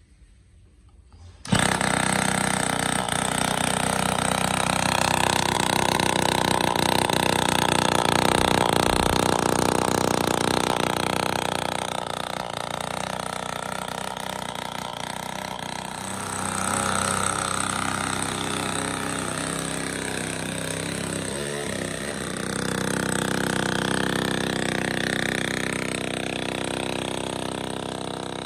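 Small two-stroke motorbike engine running, with the revs rising briefly about halfway through and again near the end.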